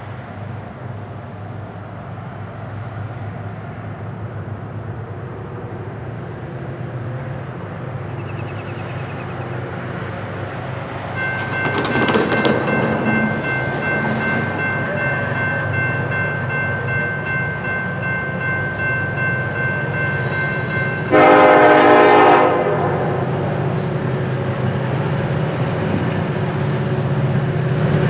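EMD SD70ACE diesel locomotive approaching, its engine rumble growing steadily louder. A steady high tone joins about 11 seconds in, and a loud, short blast of the locomotive's air horn sounds about 21 seconds in.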